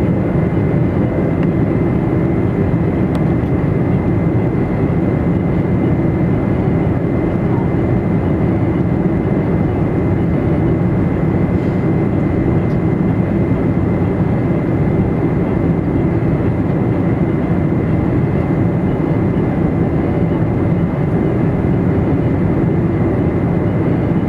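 Steady cabin noise inside a Boeing 747-400 airliner: a constant low rumble of engines and airflow with a thin, steady high whine over it, and no sudden changes.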